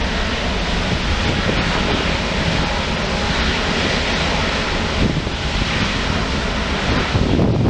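Engines of a wide-body jet airliner passing close by on the runway, a steady, loud rush of jet noise.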